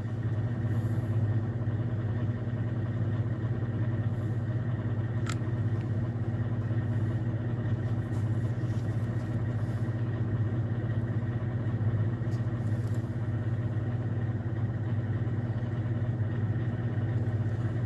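Steady low mechanical hum, engine-like, holding unchanged throughout, with one short faint click about five seconds in.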